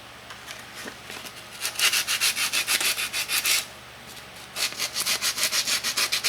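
Sandpaper rubbed quickly back and forth on the tip of a butane soldering iron to scrape off corrosion, about six or seven strokes a second. There is one run of strokes, a pause of about a second, then a second run.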